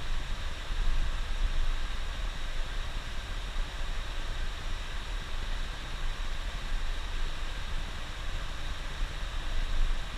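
Bus running on the highway in heavy rain: a steady low engine and road rumble under an even hiss of rain and wet road, with no distinct events.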